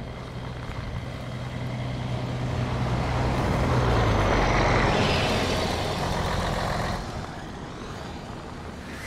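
A road vehicle driving past: engine hum and road noise swell to a peak about halfway through, the hum drops in pitch as it passes, and the sound fades within a few seconds.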